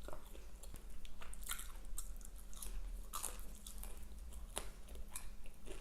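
Close-miked chewing and biting of fast food, with irregular wet mouth clicks and crunches.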